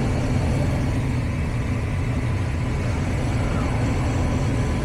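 A gas furnace running during a call for heat: a steady, unbroken low mechanical rumble with a faint thin hum above it.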